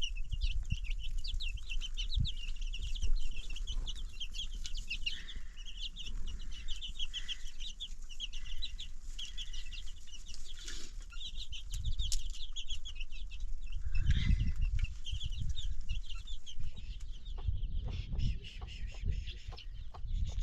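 Chickens clucking amid a dense, rapid chirping of small birds or chicks, over a low rumble with a few knocks.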